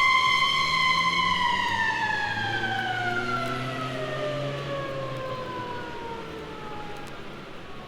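Mechanical siren winding down: its steady wail slides slowly down in pitch by more than an octave and fades away, with a low rumble beneath and a few record-surface clicks.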